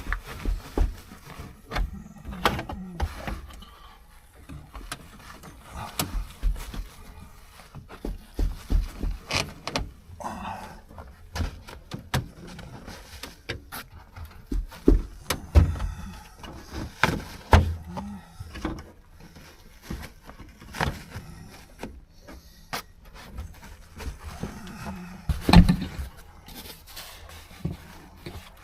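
Irregular knocks, clunks and scraping squeaks of a truck headliner board being worked loose and pulled down inside the cab, bumping against the roof and trim.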